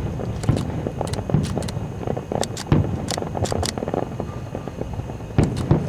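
Fireworks going off: irregular sharp bangs and crackles, a few to several a second, over a steady low rumble.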